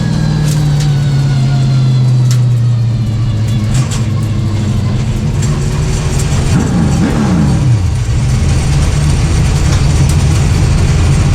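Late Model stock car's V8 engine running at low speed, its note dropping over the first few seconds. About seven seconds in a second engine note rises and falls briefly, then the engine runs steadily.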